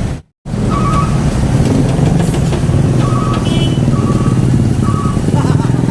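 Vehicle engines running in jammed road traffic, a steady low rumble, with a short two-tone electronic beep repeating about once a second. The sound drops out for a moment just after the start.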